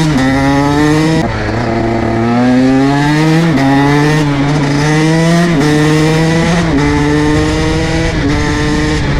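KTM SX 125 single-cylinder two-stroke dirt bike accelerating on the road. Its engine note climbs steadily in pitch through each gear and drops back at about five upshifts.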